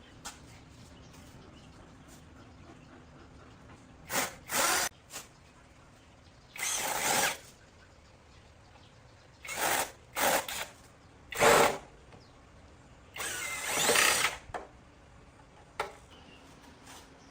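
A handheld power tool, drill-like, run in about ten short bursts of a fraction of a second to a second or so each, starting and stopping with quieter gaps between them. The first burst comes about four seconds in.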